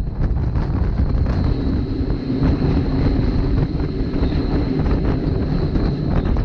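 Rhaetian Railway narrow-gauge passenger train running: a steady low rumble of the wheels on the rails with small irregular clicks and rattles, wind buffeting the microphone, and a thin, steady high whine.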